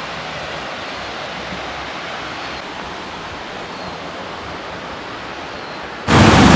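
Steady rush of flowing water. Shortly before the end, a much louder rushing noise cuts in abruptly.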